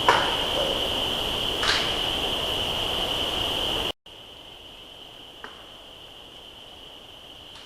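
Insects keep up a steady high drone of chirping. A sharp knock comes at the start and another about a second and a half later, like wood being struck or a thrown branch landing. About halfway through, the sound drops suddenly to a much quieter recording of the same insects, with one faint tap.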